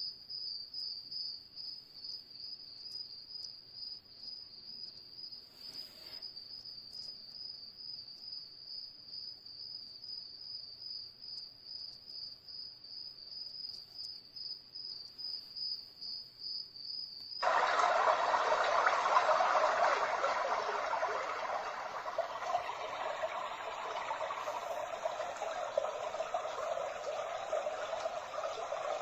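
Dreamegg Pocket Sleep 1 mini white noise machine playing its cricket sound, a steady high, rapidly pulsing chirring, then switching abruptly about two-thirds of the way in to a louder, steady rushing noise.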